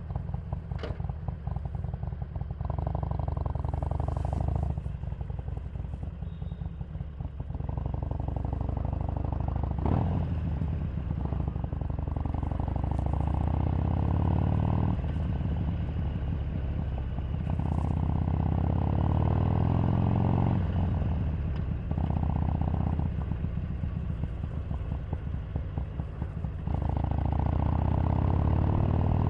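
Harley-Davidson Sportster 883's air-cooled V-twin engine running on the move. The revs rise and fall several times as the bike pulls up through the gears and eases off.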